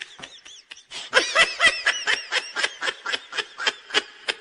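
Laughter: a quick run of short, high-pitched ha-ha bursts, about four or five a second, growing louder about a second in.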